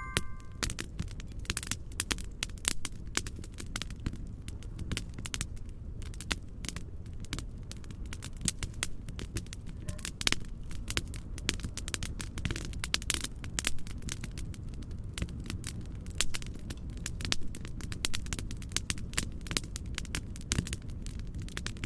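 Fireplace fire crackling, with irregular snaps and pops over a steady low noise bed of mixed-in white noise. A chime rings out briefly at the very start.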